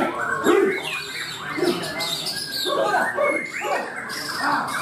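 Several Bornean white-crowned shamas (murai batu Borneo) singing at once in contest cages: overlapping loud whistled phrases, quick rising and falling notes and chattering trills, with no pause between them.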